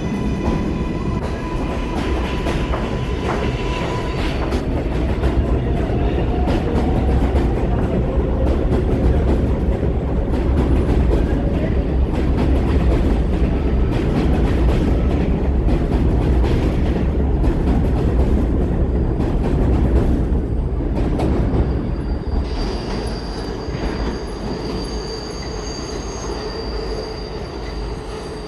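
R188 subway train pulling out and passing by. Its traction motors whine, rising in pitch at the start, over a loud steady rumble of wheels on the rails. The rumble fades and a high-pitched wheel squeal sets in near the end.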